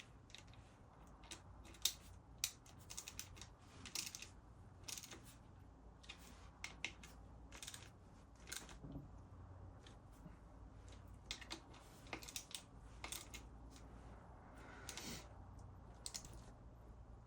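Faint, irregular clicks and short scrapes of hand work on a coolant hose and its metal hose clips, as the hose is worked off a spare engine casing.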